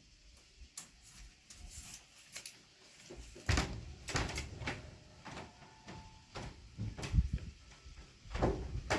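Wooden parts knocking and scraping as they are handled and fitted together, in irregular knocks, the loudest about three and a half seconds in.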